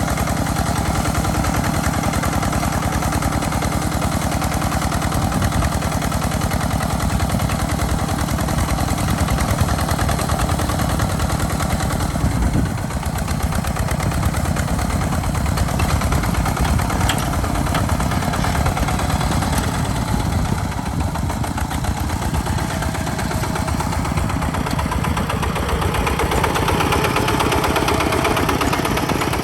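Small farm tractor's engine running steadily with a fast low chug while plowing. The engine note dips briefly partway through and grows stronger near the end.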